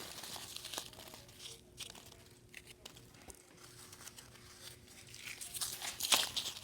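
Foam packing peanuts being handled, crinkling and crackling in irregular bursts, quiet for most of the time and louder about five seconds in.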